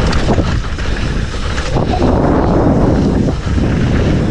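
Wind buffeting the microphone of a mountain biker's camera, over the rumble and rattle of bike tyres on a dry dirt trail during a fast ride.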